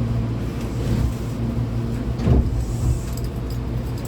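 Inside the passenger cabin of a Hankyu 8200-series electric train standing at a station: a steady low electrical hum from the train's equipment, with a single bump a little over two seconds in.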